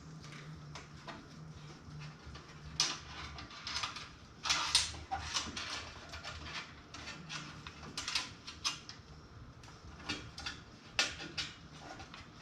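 Cables and plastic parts being handled and tucked into place inside a PC case: scattered clicks, rustles and scrapes, loudest about three, five, eight and eleven seconds in.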